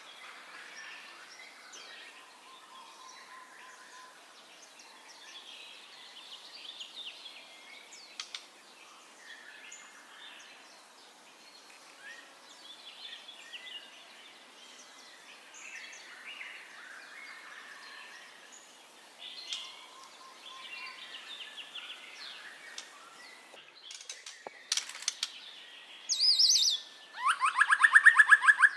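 White-rumped shama (murai batu) singing a varied song of short whistles and chirps, with a much louder run of rapid repeated trilled notes in the last few seconds.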